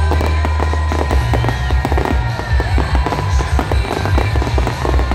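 Fireworks display: dense crackling from crackle-tailed shells over a rapid run of low booms. A steady high tone and a few short pitch glides sound above it.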